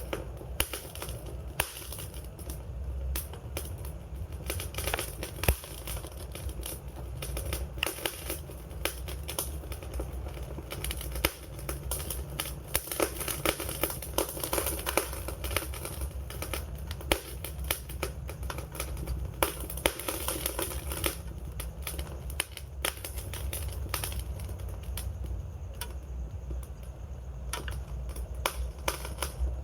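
Wood fire crackling: a dense, irregular stream of sharp snaps and pops, a few much louder than the rest, over a steady low rumble of the flames.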